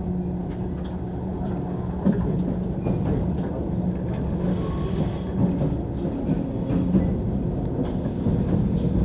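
A JR 185 series electric train running, heard from inside the carriage: a steady rolling rumble of wheels on rail with a constant low hum. A few sharp knocks from the wheels crossing rail joints come through the rumble.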